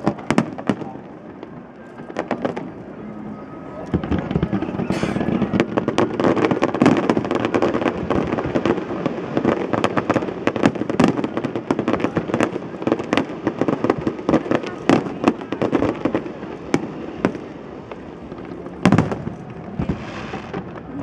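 Aerial fireworks display: a rapid, continuous string of shell bursts, bangs and crackling, sparse at first, building to a dense barrage about four seconds in, and thinning out near the end.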